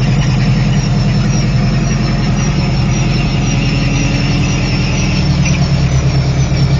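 Helicopter engine and rotor running steadily, heard loud from inside the cabin, with a thin high-pitched whine over a low drone.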